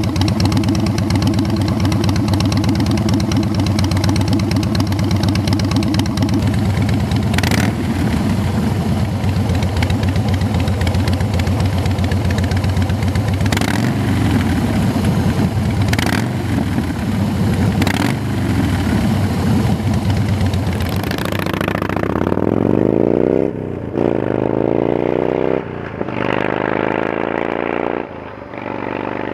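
2007 Harley-Davidson Night Train's V-twin engine running through Vance & Hines Big Shot Staggered exhaust pipes: a steady, loud idle for most of the time, then revved up three times near the end.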